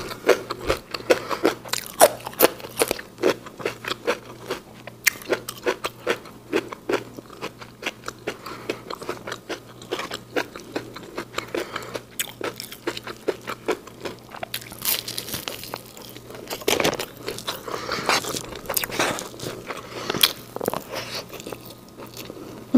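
Close-miked mouth sounds of someone eating fried rice and a crisp fried corn fritter by hand: chewing with frequent sharp, crisp crunches.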